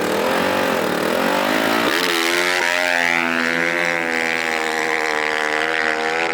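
Small off-road racing engine revving up and down, then about two seconds in accelerating hard and holding a high, steady pitch at full throttle.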